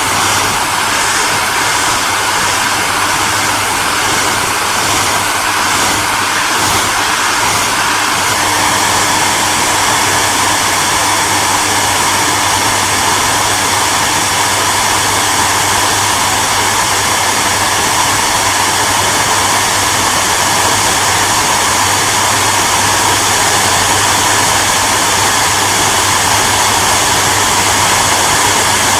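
Hair dryer running continuously: a steady rush of blown air over a constant low motor hum, the tone shifting slightly about eight seconds in.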